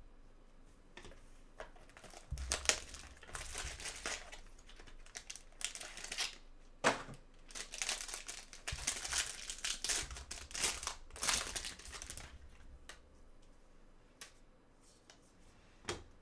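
Plastic trading-card packaging crinkling and rustling as it is handled, with some tearing, in dense bursts from about two seconds in until about twelve seconds, then quieter handling with a few light clicks.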